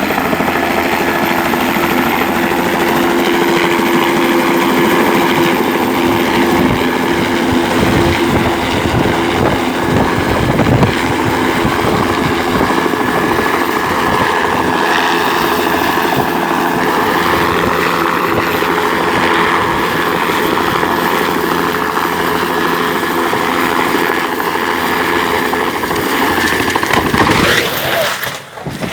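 Helicopter running close by, a steady loud rotor and engine drone with a held whine, which changes abruptly and dips briefly near the end.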